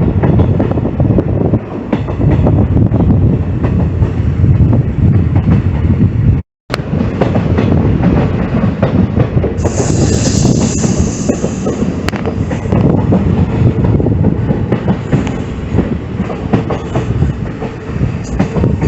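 A passenger train running on the rails, heard on board: a steady rumble with the wheels clattering over rail joints. About ten seconds in, a high hiss lasts for a couple of seconds.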